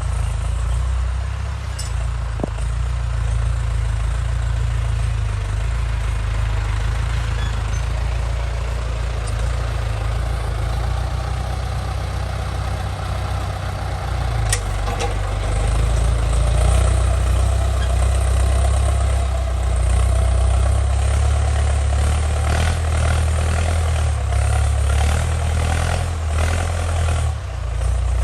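Ford 6600 tractor's three-cylinder diesel engine running steadily under load while plowing, a little louder about halfway through.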